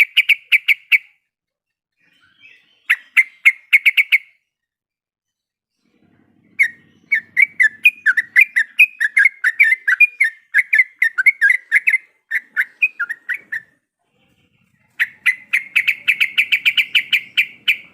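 Yellow-vented bulbul calling in bursts of rapid, sharp chattering notes. A short trill at the start and another about three seconds in are followed by a long, more varied chatter, then a fast, even trill near the end.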